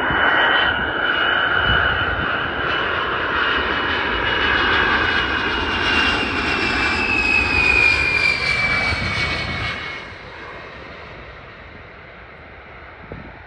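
Jet aircraft passing close by with loud engine noise and a high whine that slowly falls in pitch, fading away about ten seconds in.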